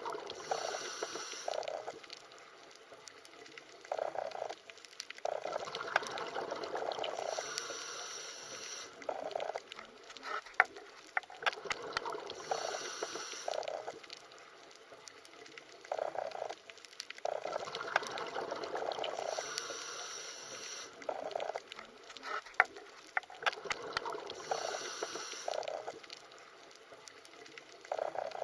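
Underwater recording of bubbling, gurgling water with scattered small clicks, swelling and fading in surges every few seconds.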